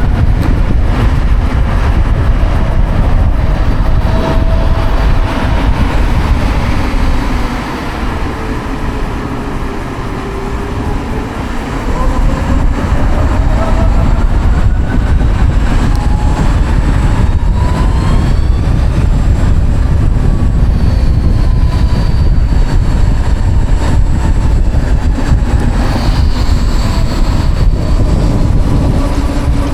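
Wind buffeting the microphone while riding the Savic C3 electric motorcycle, its electric motor whining thinly underneath. The whine falls in pitch as the bike slows about a quarter of the way in, then rises again as it speeds back up.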